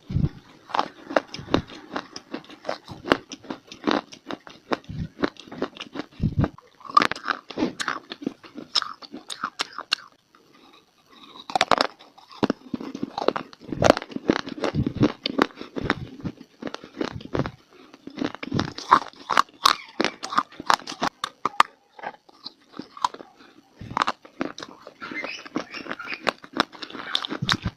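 A person biting and chewing hard, brittle pieces of dried clay, making dense, sharp crunches, with a short pause about ten seconds in.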